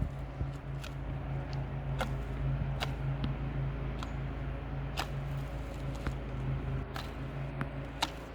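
A steady low motor hum runs throughout, with scattered sharp clicks and snaps on top, about one every second or so.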